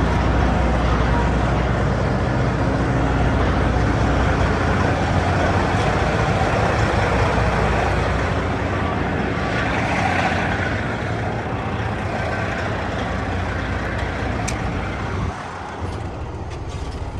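Heavy diesel truck running, a steady low rumble with a swell of noise about ten seconds in that eases off, dropping quieter near the end.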